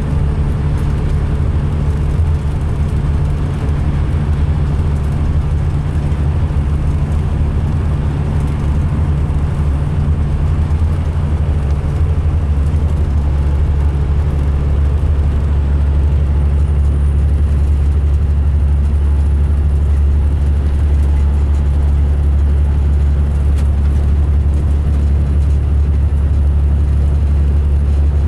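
2005 MCI D4500 coach's diesel engine running steadily as a deep, even drone, getting slightly louder about halfway through. A faint high whistle comes in a little after that. The uploader says this coach sounded rough both running and idling.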